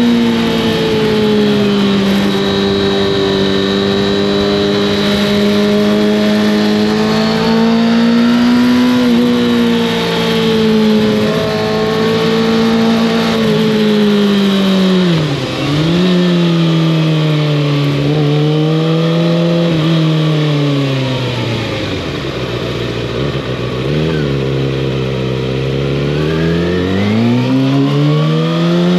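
Kawasaki ZX-6R inline-four through an Arrow exhaust, heard from on the bike. The engine holds steady revs, dips briefly about halfway through, then falls to lower revs for several seconds before revving up again near the end.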